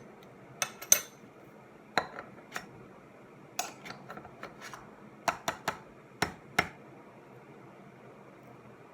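Hard objects being handled, clicking and clinking: about a dozen sharp knocks, some in quick pairs, over a steady room hiss. The knocks stop about seven seconds in.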